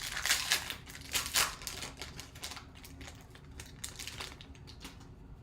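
Foil trading-card pack being torn open and its wrapper crinkled, a run of sharp crackles loudest in the first second and a half, then smaller rustles that fade out near the end.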